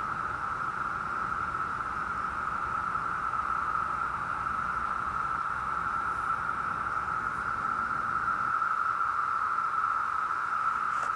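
Dense chorus of 17-year periodical cicadas (Brood V): millions calling together in a steady, unbroken, high howl.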